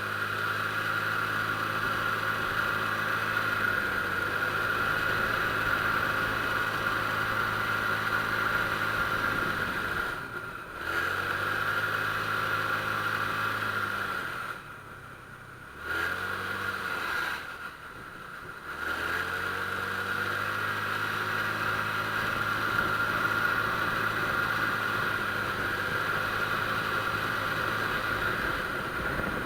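Honda Click scooter engine running on the move, its pitch rising and falling as the throttle is rolled off and opened again: briefly around ten seconds in, then twice between about fourteen and nineteen seconds. A steady high whine sits over the engine note.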